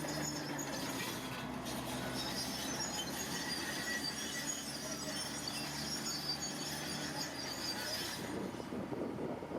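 Diesel engine of a heavy earthmoving machine running steadily, with high metallic squeaking over it. About eight seconds in, both give way to a rumbling noise like wind on the microphone.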